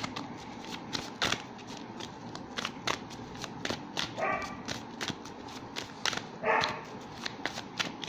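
A dog barks twice, about four seconds in and again, louder, a couple of seconds later. Under the barks runs a string of quick light clicks from tarot cards being shuffled and laid out.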